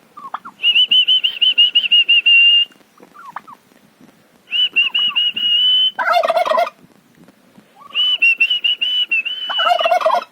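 Three long, warbling high whistles, each followed or overlapped by a male turkey's gobble. The turkey answers the second and third whistles with a short burst of rapid gobbling.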